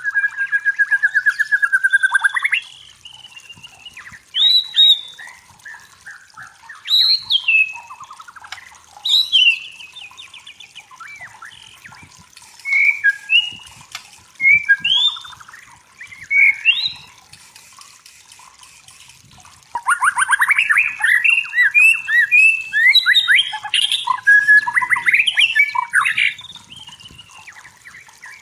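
White-rumped shama singing: varied whistled phrases of rising and falling notes, given in short bursts with pauses between them, then a long unbroken run of song from about twenty seconds in to about twenty-six.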